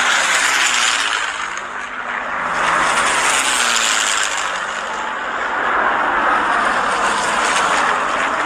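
Piston engines of vintage military propeller planes droning overhead under a broad rushing noise, with faint engine tones gliding in pitch. The sound dips about two seconds in and swells again.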